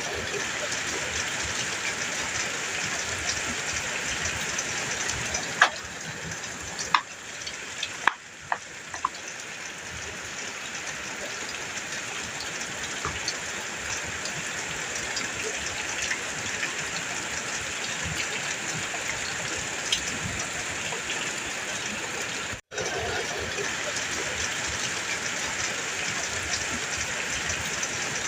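Heavy rain falling steadily on a metal roof, an even hiss with a few sharp louder drop hits between about five and nine seconds in. The sound cuts out for an instant about two-thirds of the way through, then resumes.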